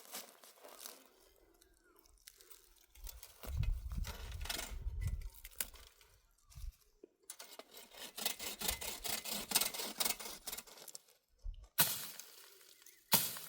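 Dry brush and branches crackling and snapping as they are handled, with a low rumble a few seconds in and a few sharp cracks near the end.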